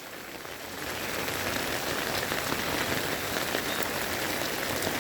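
Steady rain falling and splashing on hard surfaces, growing a little louder about a second in.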